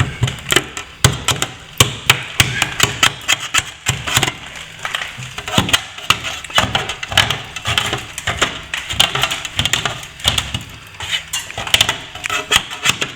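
Plastering hand tools working at the wall: irregular sharp clicks and knocks among rasping scrapes, several a second with short pauses, as old plaster and paint are worked at the crack.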